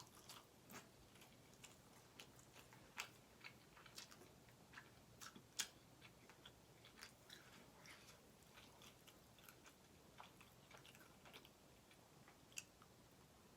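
Close-miked mouth sounds of eating: quiet chewing with scattered soft smacks and clicks, a sharper one about halfway through.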